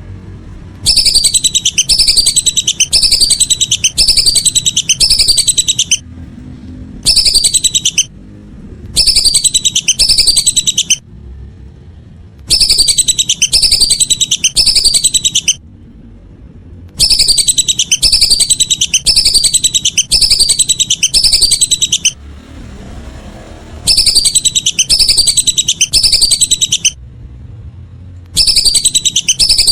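Whistling duck (belibis) calls: rapid runs of loud, falling whistles in bouts of one to five seconds, broken by short pauses.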